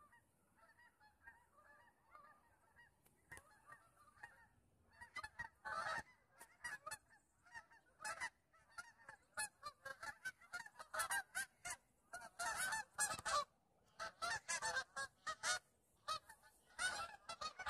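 A flock of geese honking in flight overhead, many short overlapping calls, faint at first and growing louder from about five seconds in.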